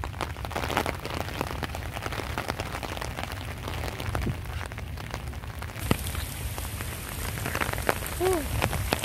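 Heavy rain falling steadily: a dense hiss dotted with the sharp clicks of individual drops.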